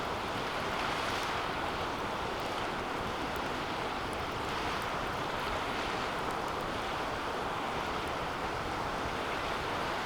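Wood fire burning steadily in a metal fire pit: an even rushing of flame with faint, scattered crackles.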